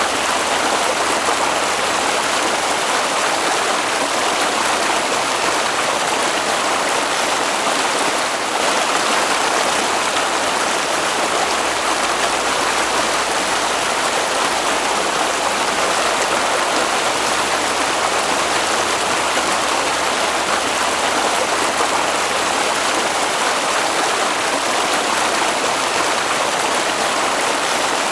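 Flowing water in a stream, a steady, even rush without breaks.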